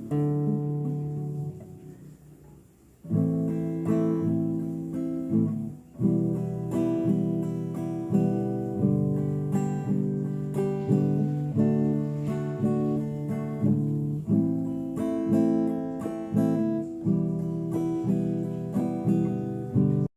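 Acoustic guitar music: a chord rings out and dies away, then a steady run of plucked and strummed chords follows, stopping abruptly at the end.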